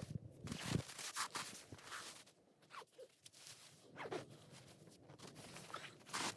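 Faint, intermittent rustling and scraping: short irregular strokes with brief gaps, a few of them falling in pitch.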